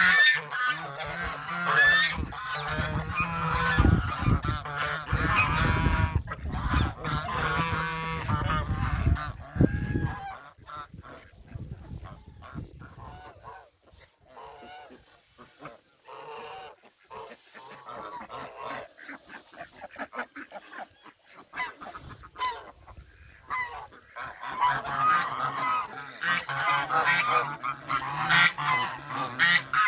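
A flock of domestic geese honking, many calls overlapping. The calling is loud for the first ten seconds, thins out and grows quieter through the middle, then picks up loudly again near the end.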